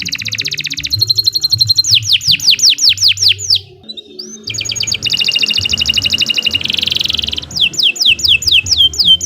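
Domestic canary singing a long, continuous song: fast rolling trills and runs of quickly falling whistled notes. There is a brief break about four seconds in before the song resumes.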